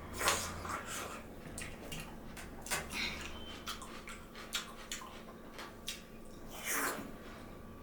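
A person eating close to the microphone: chewing and mouth sounds with many scattered wet clicks, and two longer, louder noisy mouth sounds, one just after the start and one near the end.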